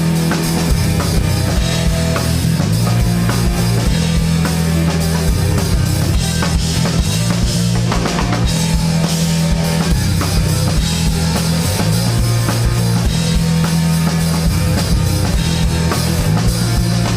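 Live rock band playing an instrumental passage: drum kit with bass drum and cymbals, electric bass and electric guitars, without vocals.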